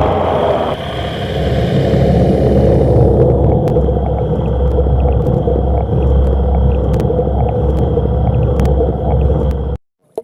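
Loud, muffled underwater rumble of fast-moving flood water heard through a submerged microphone, with scattered small clicks and knocks. It dulls further about a second in and again around three seconds, then cuts off suddenly near the end.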